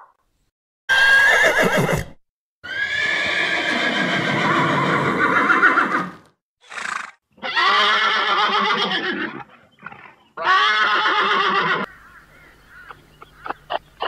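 A horse whinnying again and again: loud, quavering neighs of different lengths with short breaks between them. After the calls stop, a few faint clicks near the end.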